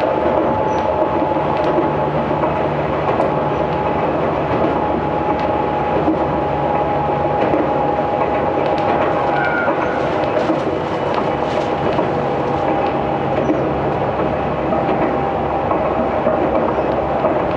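Aizu Railway 6050 series electric train running steadily along the line, heard from inside the passenger cabin: a continuous rumble of wheels on rail with a steady held tone and a few light clicks from the track.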